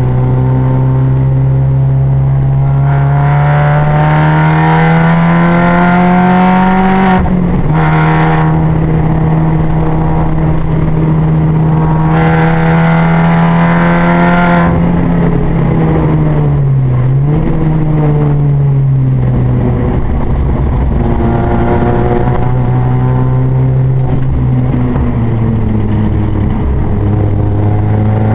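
Mini's engine pulling hard on track, its note climbing steadily through the revs. It breaks at a gear change about seven seconds in and again around fourteen seconds, dips and recovers briefly a few seconds later, then climbs again.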